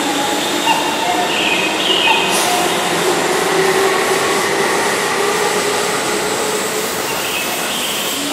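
Keihan electric commuter train at a station platform: a steady rush of train noise with faint whining tones, unbroken throughout.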